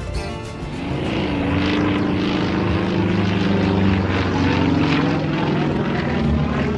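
Yak-50 aerobatic plane's nine-cylinder radial engine and propeller running at display power. The engine sound rises in pitch and swells about a second in, then holds loud and steady.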